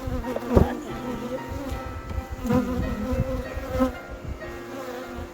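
Honeybees buzzing in a steady drone around an opened hive, with a few sharp knocks from handling the hive, the loudest about half a second in.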